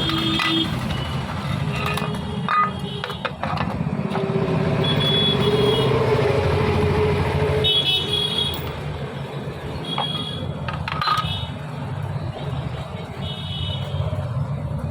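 Steady low hum of passing motor traffic, with several short, high horn beeps and a few sharp clicks.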